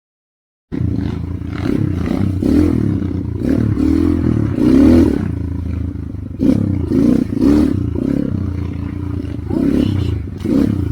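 Trail motorcycle engine revving up and down repeatedly under load, cutting in abruptly less than a second in after a moment of silence.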